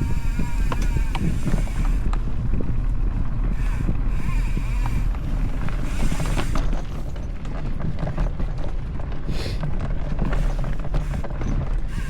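A mountain bike rolling along a dirt trail: wind rumbling on the microphone, with frequent clicks and rattles from the bike over the ground.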